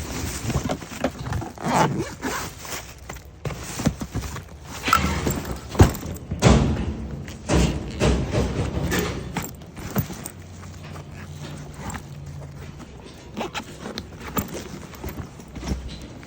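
A suitcase being unzipped and rummaged through: a busy run of knocks, thumps and handling noises, thinning out from about ten seconds in.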